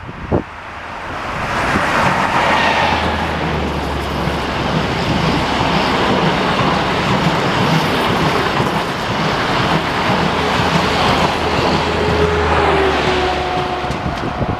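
EP20 electric locomotive and its Strizh passenger train running past at speed: a loud, steady rush of wheels on rail and moving air with a low hum. It builds over the first two seconds and eases near the end.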